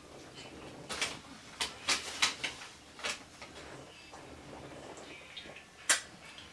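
Close-up mouth noises of someone eating: irregular wet clicks and lip smacks while chewing, a cluster of them one to three seconds in and a sharper one near the end.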